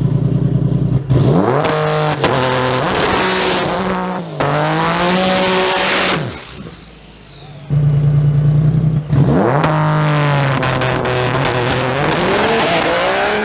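Race truck engine idling with a pulsing beat, then accelerating hard, its pitch climbing, dropping at a shift and climbing again before fading away. About eight seconds in, a second run begins the same way: a pulsing idle, then the engine revs up through the gears.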